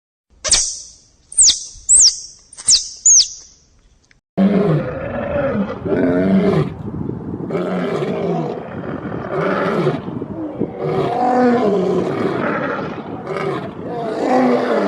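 Five short, high chirps, each falling steeply in pitch, then a pause, then a large animal roaring and growling continuously from about four seconds in.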